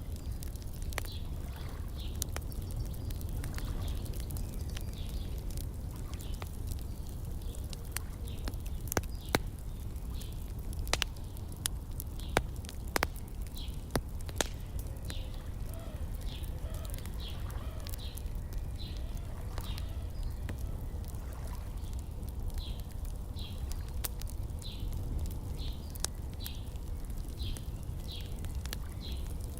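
Wood fire crackling, with scattered sharp pops over a steady low rumble. A bird repeats short high chirps throughout, more often in the second half.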